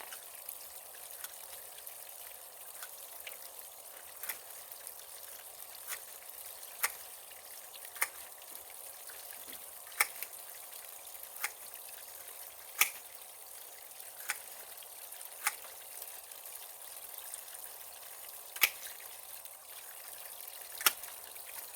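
Steady trickle of running water, with sharp clicks or snaps every second or two.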